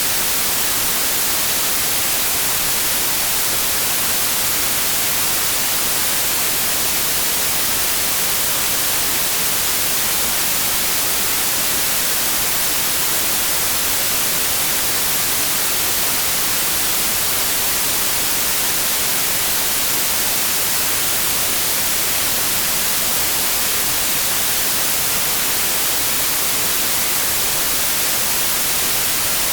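Steady white noise: an even, unbroken hiss, brightest in the treble.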